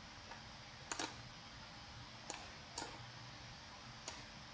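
Computer mouse clicking: a quick double click about a second in, then three single clicks spaced out over the next few seconds.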